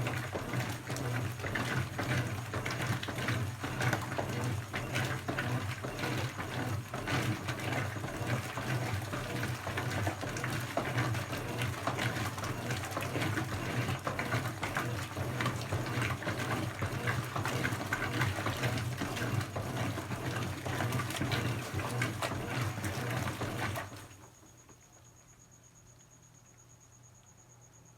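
Brastemp BWK17 17 kg washing machine running mid-cycle: a steady motor hum with water churning in the drum. It stops abruptly about 24 seconds in, leaving only a faint high whine.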